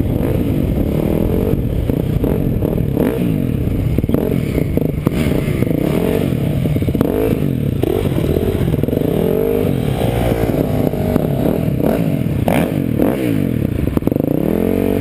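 Small off-road vehicle engine under way, revving up and down again and again as it is ridden over rough ground, with clatter and scraping from the machine.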